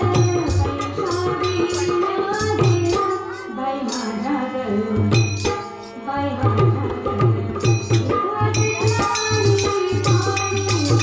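Marathi devotional bhajan music: hand drums keep a steady rhythm under a sustained melody line, with bright cymbal-like strikes. The drumming thins out for a couple of seconds midway, then picks up again.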